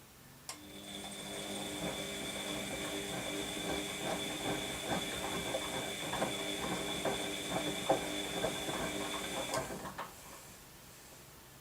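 Washing machine motor turning the drum for about nine seconds: a steady whine with irregular knocks and rattles over it, switching on with a click and stopping with a click, followed by a second click.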